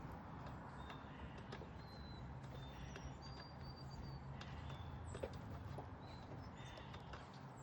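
Small backyard songbirds at a seed feeder giving short, high chirps and calls, one note held for about a second near the middle, with scattered light clicks and taps. A steady low hum runs underneath.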